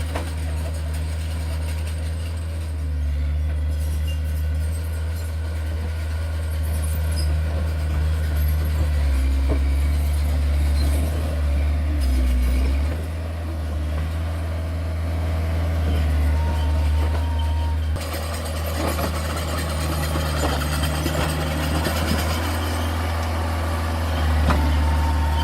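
Diesel engine of heavy earthmoving machinery running with a steady low rumble. A short high tone sounds twice, the second near the end.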